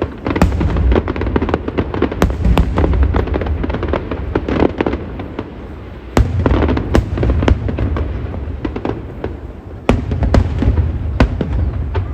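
Aerial fireworks display bursting: a dense run of booms and sharp cracks over a continuous rumble, with fresh volleys starting about half a second in, near the middle, and again near the end.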